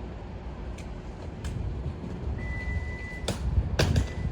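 Steady low rumble with a high electronic beep tone held from about halfway through, and two sharp clacks near the end.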